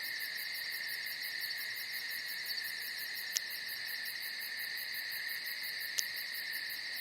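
Night insect chorus: a steady high trilling, with a faster pulsing chirp above it about four or five times a second. A sharp click comes a little before the middle and another near the end.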